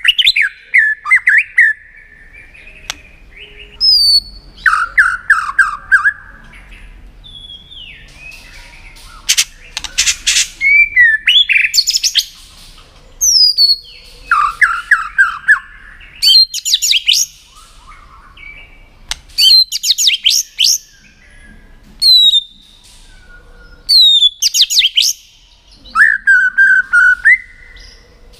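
White-rumped shama calling in short loud bursts every two or three seconds: sweeping whistled notes mixed with sharp clicking 'tạch' calls.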